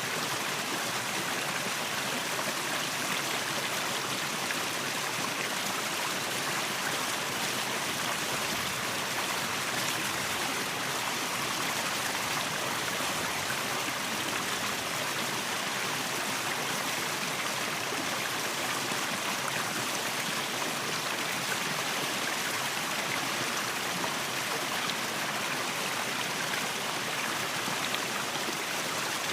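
A waterfall and its stream, with water rushing steadily and evenly.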